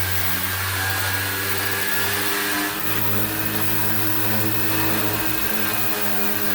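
Electric power sander running steadily, sanding old flaking paint off a wooden window sun shade. It hums over a broad hiss, its pitch dipping slightly a couple of seconds in as it works.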